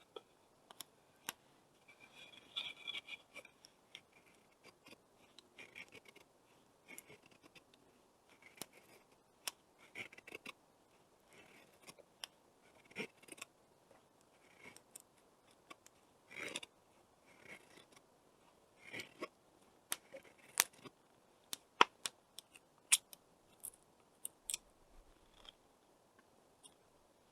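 Wood fire crackling, with irregular sharp snaps and pops and short hisses.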